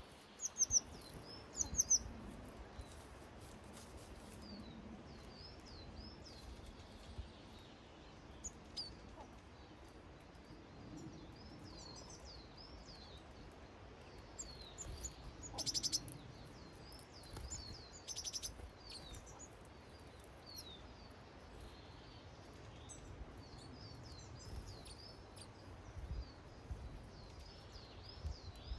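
Small garden songbirds calling at a feeder: short, high chirps repeated on and off, with a couple of louder, harsher notes around the middle.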